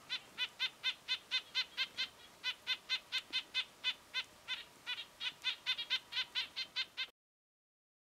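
A bird calling in a fast, even series of short notes, about four or five a second, with a brief pause about two seconds in. The calls cut off suddenly near the end.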